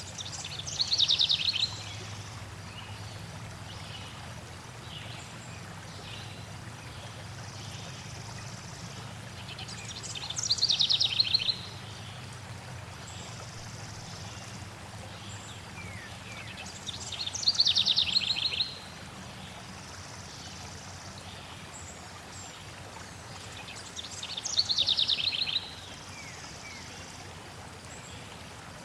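A songbird singing the same phrase four times, about seven seconds apart. Each phrase is about two seconds of rapid high notes falling in pitch, with fainter chirps between them, over a steady background of flowing stream water.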